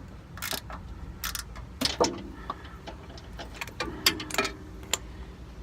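Ratchet wrench clicking in short, irregular strokes as a shock absorber's mounting bolt is worked loose, with a few sharp metallic clicks standing out.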